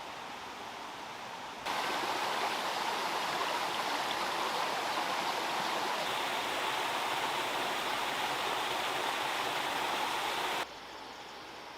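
Steady rush of flowing water, starting abruptly about two seconds in and cutting off abruptly near the end, with a quieter steady hiss before and after.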